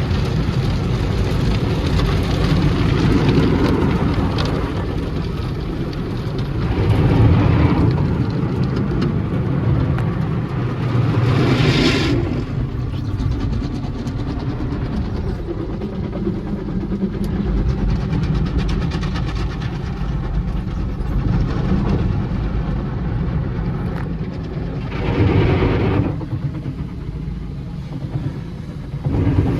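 Automatic car wash running over the car, heard from inside the cabin: a continuous rumble of water spray and wash equipment on the body, swelling to louder, hissier passes three times.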